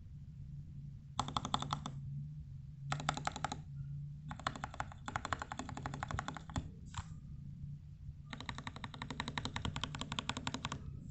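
Royal Kludge RK61 mechanical keyboard being typed on: fast clicking keystrokes in several runs with short pauses between, the longest run near the end.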